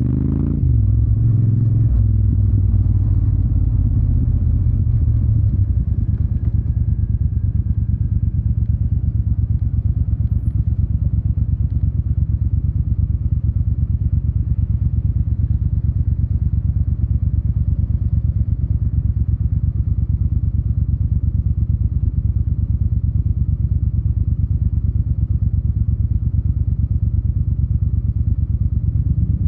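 Yamaha TDM 900's parallel-twin engine through an Akrapovic exhaust. The revs shift and drop in the first couple of seconds, then it runs steadily at low revs with an even, low throb.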